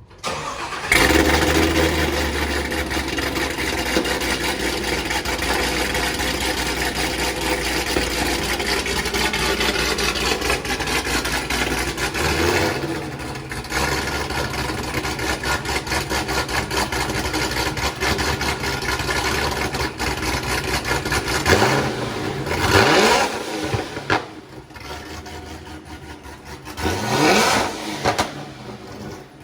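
A ProCharger-supercharged C7 Corvette Z06 V8 starts about a second in and runs at a raised idle for roughly ten seconds before the idle drops. Near the end it is blipped a few times, the pitch sweeping up and falling back to idle between blips.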